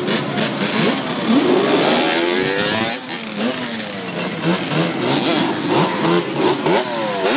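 Several dirt bike and motorcycle engines revving at once, their pitch rising and falling again and again over a haze of street noise.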